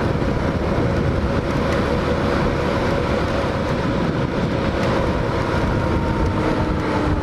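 Hawk 250 dual-sport motorcycle's single-cylinder engine running at a steady cruise on the road, mixed with wind rush on the mic. Near the end the engine note starts to fall as the revs drop.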